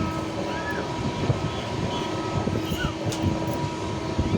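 A moving train running, with a steady rumble full of small knocks and a steady high hum over it.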